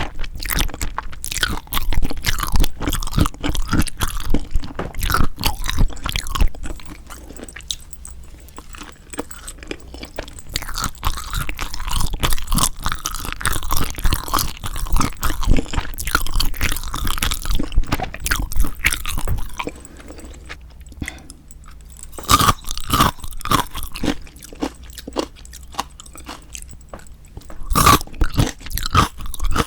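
Close-miked chewing and crunching of spicy marinated raw shrimp (yangnyeom saeujang). The chewing eases off about a quarter of the way in and again for several seconds past the middle.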